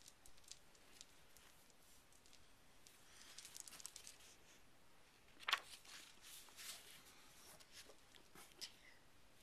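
Near silence with faint rustling and a few soft clicks, and one sharper tap about halfway through.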